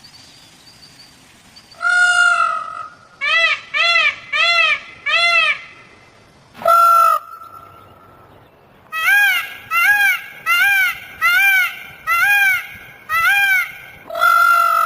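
Black peacock (peafowl) calling with loud, nasal, honking calls. There is a longer call about two seconds in, then a run of four short calls. A long drawn-out call comes near the middle, and in the last third a quicker series of about eight calls, roughly one every two-thirds of a second.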